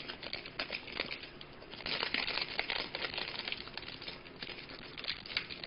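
Wrapper of a hockey trading-card pack crinkling as it is handled and opened by hand.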